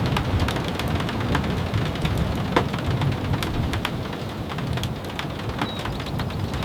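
Steady rain with a low rumble underneath and scattered sharp ticks throughout.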